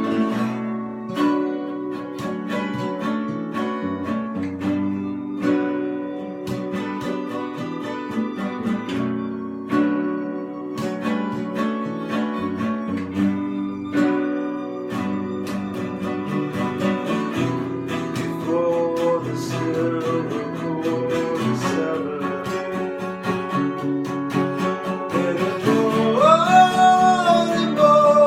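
Instrumental passage of a song: acoustic guitar playing steadily, with a higher held melody joining near the end.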